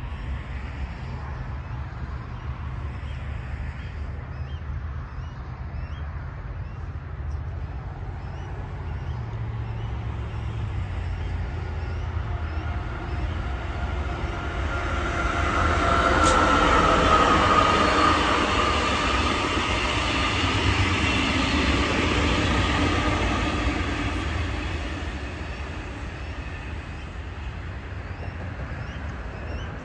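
A train passing by. Wheel and rail noise swells to its loudest about halfway through, with a tone that falls slightly in pitch as it goes by, then fades away, over a low, steady engine hum.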